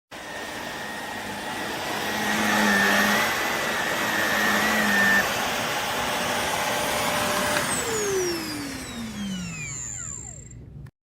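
Shark NV352 Navigator Lift-Away upright vacuum running steadily. About eight seconds in it is switched off, and its motor whine falls in pitch as it spins down.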